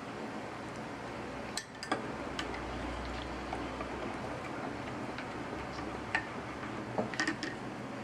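A few light clicks and clinks of small hard objects over a steady hiss, with a quick cluster of them near the end.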